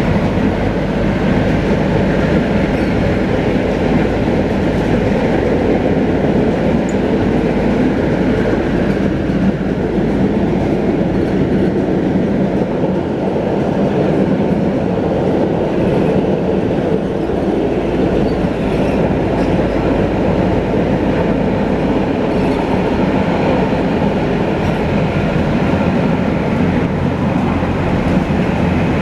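Konstal tram running along the track: a steady rumble of wheels and motors that holds level throughout.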